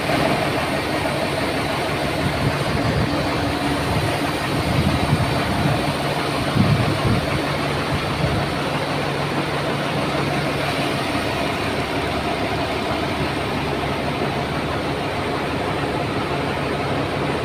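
Heavy hydraulic mobile crane's engine running steadily, with a few louder swells between about 2 and 7 seconds in.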